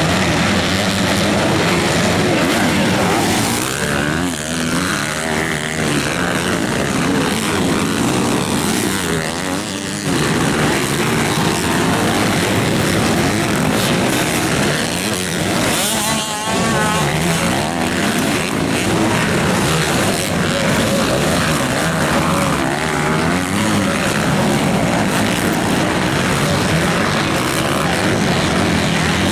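MX2 motocross bikes racing, their engines revving up and down continuously as riders work the throttle around the track.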